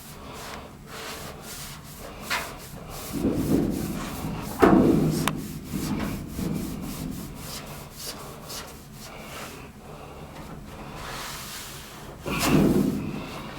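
Hand scrubbing of sheet-metal ductwork: irregular rubbing strokes, with a sharp knock about four and a half seconds in.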